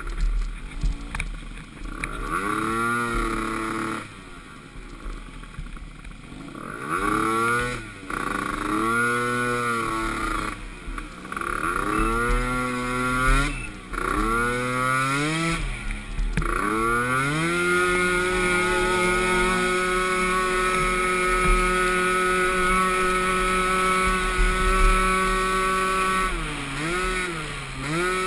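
Small engine of a pee wee youth racing ATV revving up and falling back about six times as the throttle is worked on and off. It then holds at a steady high pitch for about ten seconds, with one quick dip and recovery near the end.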